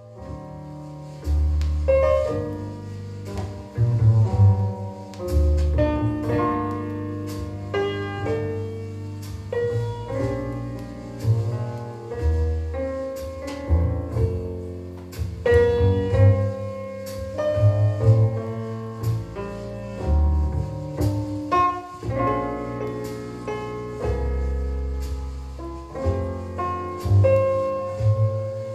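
Instrumental music with piano and a deep, prominent double-bass line, played back from a vinyl record through a hi-fi system with a subwoofer.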